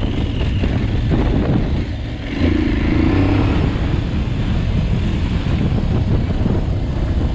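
Aprilia Tuareg 660 adventure motorcycle engine running while riding a dirt trail, with a brief rev about two and a half seconds in.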